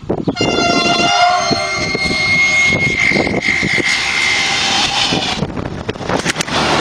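Yellow SNCF infrastructure train approaching and passing close at speed, sounding one long, high horn note for about the first half, over the loud rumble of the train, with sharp wheel clacks near the end.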